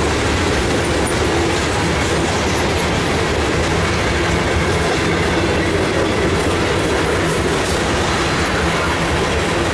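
Norfolk Southern mixed freight train's tank cars and covered hoppers rolling past, a steady, continuous noise of steel wheels running on the rails.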